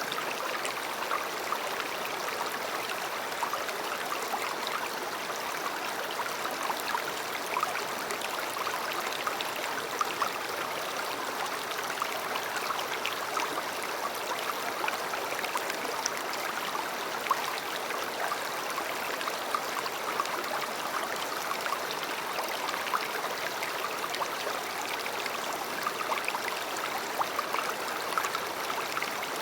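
River water flowing steadily over its bed: a constant rushing, flecked with many small splashes.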